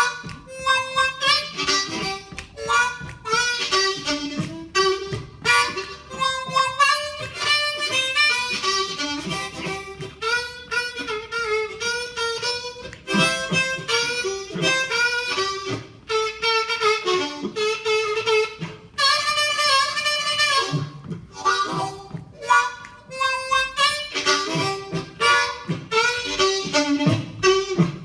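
Blues harmonica solo with the band playing behind it: an instrumental break in phrases of changing notes, with some long held notes a little past the middle.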